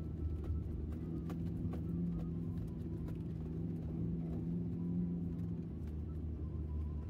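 Daihatsu Feroza 4x4's engine running while driving, a steady low drone, with scattered sharp clicks and knocks over it.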